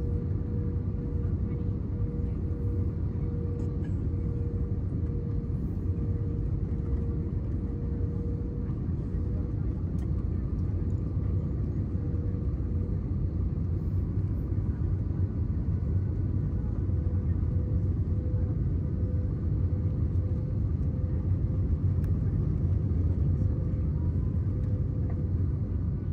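Airbus A320 cabin noise on the descent: a steady low rumble of airflow and engines, with a steady hum over it.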